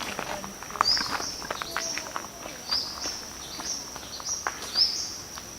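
Footsteps on a rainforest track over a steady high-pitched insect drone, with short rising chirps repeating about once a second.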